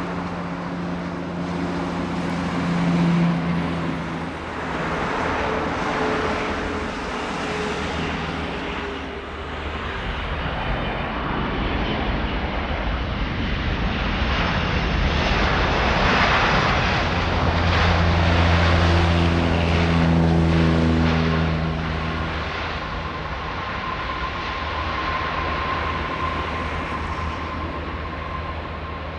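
Jet airliner engines roaring past, the noise swelling to its loudest about two-thirds of the way through and then easing off, over a steady low hum.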